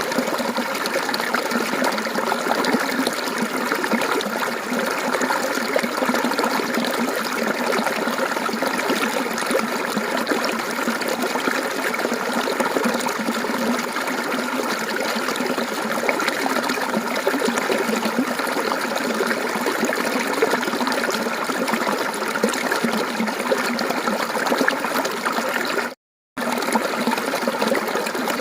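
Mountain stream water flowing and trickling steadily over rocks, an even rushing babble. The sound drops out completely for a moment near the end, then comes straight back.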